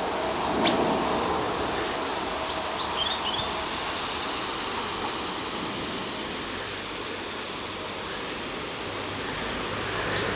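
Steady wind, blowing through foliage and across the microphone, with a small bird's short, quick chirps about two to three seconds in.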